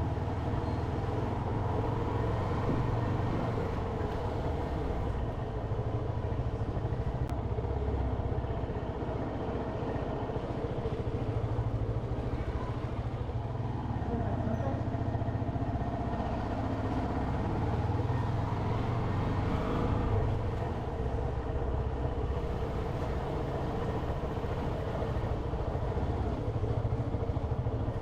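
Motorcycle running steadily while being ridden.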